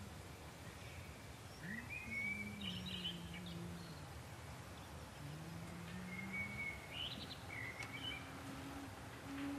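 Small birds chirping in two short bursts of song over a steady outdoor hiss, with a faint low tone that slides slowly up and down underneath.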